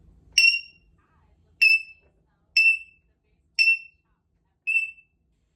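Congo African grey parrot mimicking an electronic beep: five short, high beeps about a second apart, the last a little weaker.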